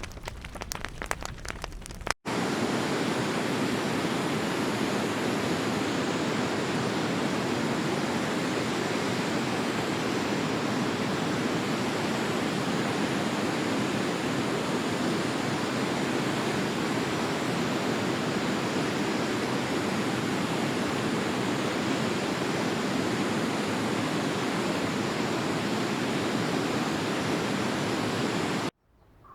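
Fire crackling for about two seconds, then a sudden cut to a steady, even rush of flowing water that stops abruptly near the end.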